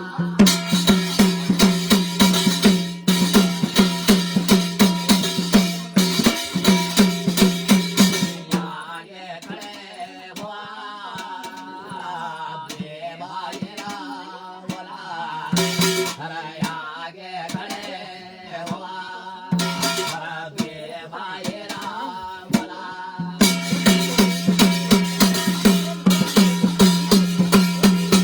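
Instrumental passage of Garhwali jagar folk music: fast, evenly repeating drumbeats over a steady low drone. In the middle the drumming drops back to a softer, wavering melody, and the full drumming returns near the end.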